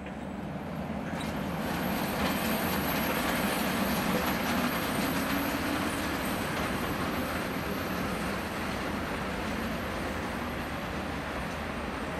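An SBB Re 4/4 II electric locomotive and its double-deck coaches running along the track as the train pulls away, with steady wheel and rail noise. It swells over the first couple of seconds, then slowly eases off as the train draws off.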